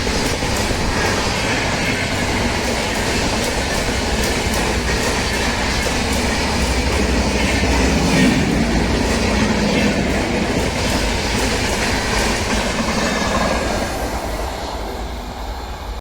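Express train passing at speed on the rails: a steady loud rush of wheels and coaches with a rapid clatter of wheels over rail joints, easing off a little near the end.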